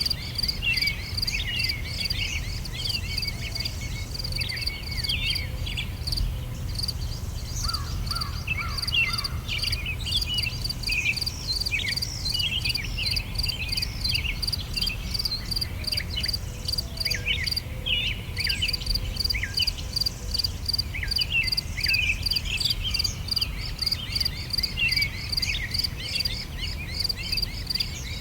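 Songbirds singing, with many short quick chirps and trills overlapping. Behind them runs a steady, rapid, high-pitched pulsing that drops out briefly a few times, over a low steady rumble.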